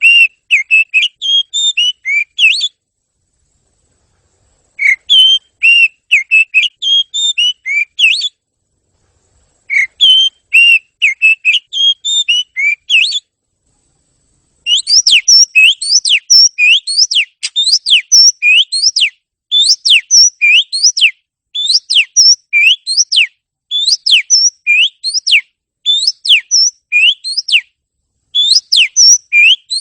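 Oriental magpie-robin (kacer) singing: bursts of varied song phrases about two to three seconds long with silent gaps between them, then about halfway through a long series of quick rising notes in short runs broken by brief pauses.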